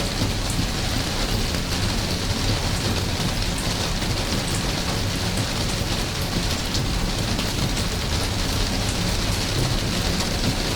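Steady rain falling, a dense even hiss with faint sharp drop ticks over a constant low rumble.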